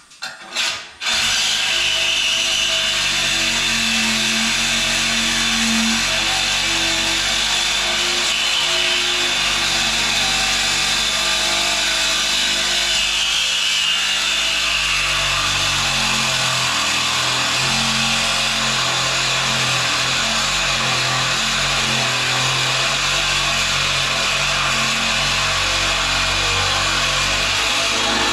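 A power tool running steadily, starting about a second in and holding without a break, with a shifting lower hum underneath.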